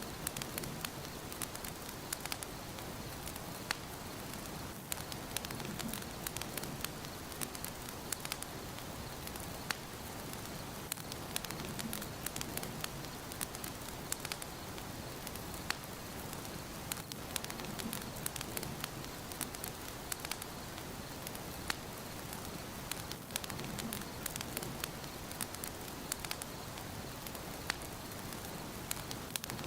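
Wood fire burning in a fireplace: a steady hiss with frequent sharp crackles and pops, and a soft low rush about every six seconds.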